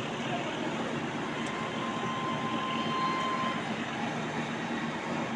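Steady traffic noise from vehicles passing on a highway, with a faint held tone about two seconds in.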